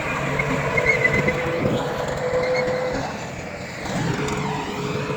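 Heavy earthmoving machinery's diesel engine running steadily. It eases off briefly about three seconds in and picks up again a second later.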